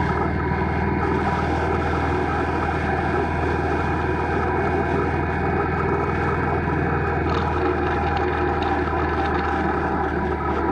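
An engine running at a steady speed: an even, unchanging drone.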